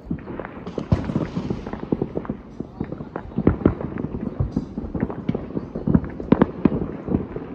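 Fireworks bursting and crackling in a rapid, irregular run of pops and bangs, several a second, with louder reports now and then.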